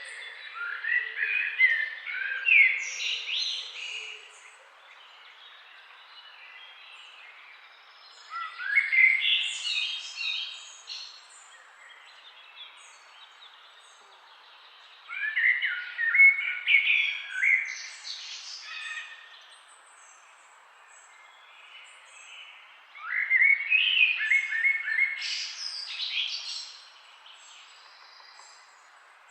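A songbird singing in repeated phrases of quick chirps and short trills, four phrases of about three seconds each, roughly seven seconds apart, over a faint steady background hiss.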